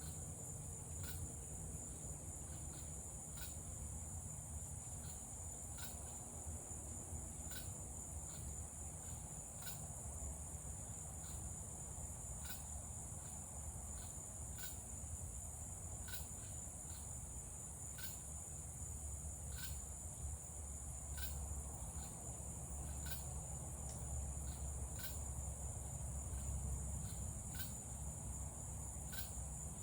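Crickets and cicadas calling: a steady high-pitched trill with short sharp chirps about once a second over it, and a low rumble underneath.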